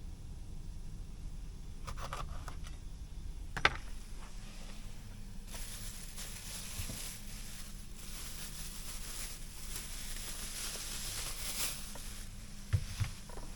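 Cooking and handling noises: a few clicks and one sharp clack, then several seconds of steady hiss, then two knocks near the end, over a low steady hum.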